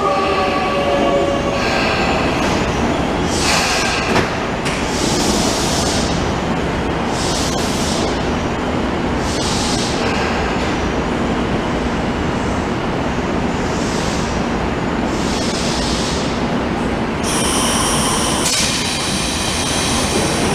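Tobu 9050 series electric train braking into a station: the whine of its Toyo GTO inverter falls in pitch and fades in the first two seconds. Steady wheel and rail rolling noise follows, broken by short high squeals, with a sustained high-pitched wheel or brake squeal near the end as it draws to a stop.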